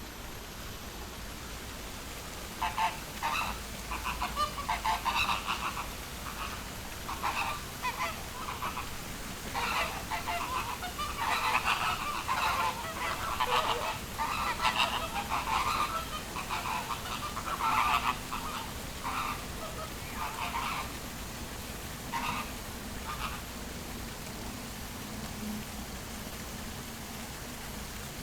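Birds calling over and over in quick runs of short, loud calls for about twenty seconds, then falling quiet near the end.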